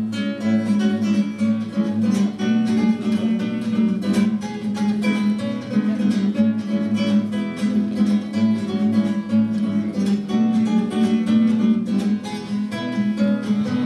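Acoustic guitar playing an instrumental break, strummed chords in a steady, lively rhythm.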